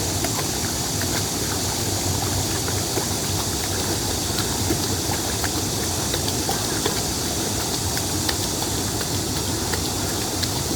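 Mountain valley stream rushing over rocks: a steady rush of water with small scattered splashes.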